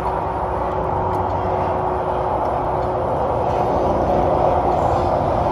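Steady mechanical drone: a constant low hum with a thin steady tone, level throughout.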